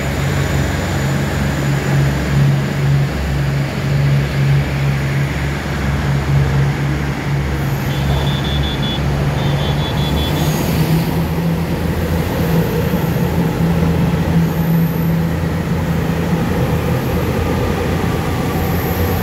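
Diesel multiple unit (DR3100) running along the platform with a steady low engine hum, while an EMU3000 electric train pulls in on the neighbouring track and passes close. Two short high tones sound about eight to ten seconds in, followed by a brief rush as the electric train arrives.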